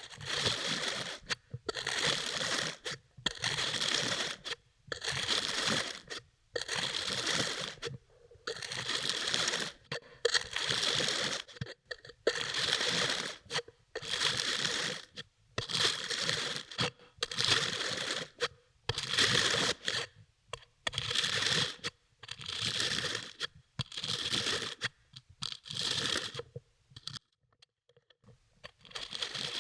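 A knife slicing through kinetic sand, over and over: about fifteen gritty cuts, each under a second and about a second apart, with a short pause near the end.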